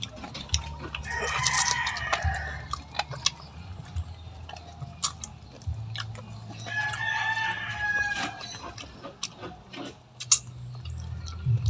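Rooster crowing twice, each crow lasting about two seconds, the second starting about five seconds after the first.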